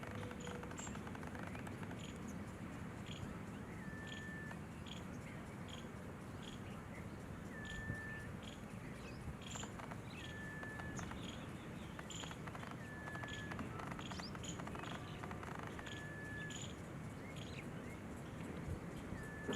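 Birds calling: a short, flat whistled note repeated about every three seconds, with scattered brief high chirps in between, over a steady low background hum.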